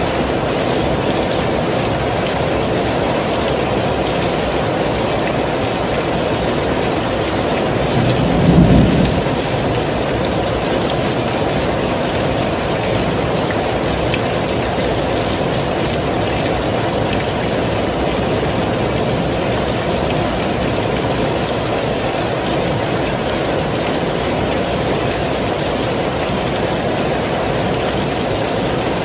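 Heavy rain falling steadily, with a brief low rumble about eight seconds in.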